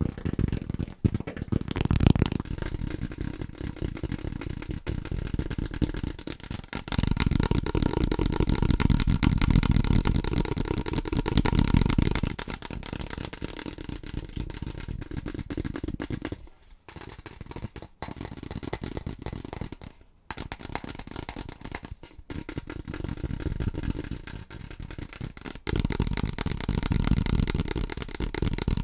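Fast, aggressive tapping on household objects, a dense stream of rapid taps. It switches to a different-sounding item every few seconds.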